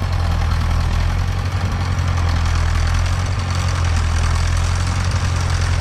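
A heavy vehicle's engine running steadily at an even, low pitch, the machine being used to move a large oak log.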